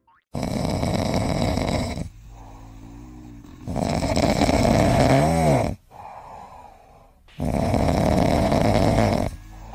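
Domestic tabby cat snoring in its sleep: three long snores about three and a half seconds apart, with quieter breaths between them.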